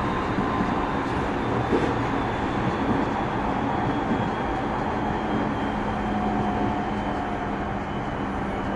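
Running noise inside a JR 209-series electric motor car under way: a steady rumble of wheels on rail, with faint steady tones from the running gear laid over it.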